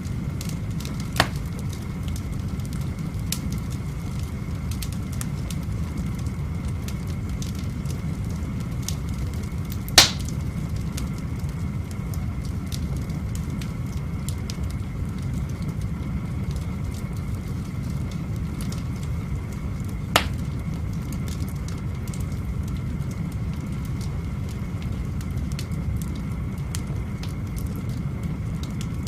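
Wood fire burning in an open fireplace: a steady low rumble with scattered small crackles and three sharp pops, the loudest about ten seconds in.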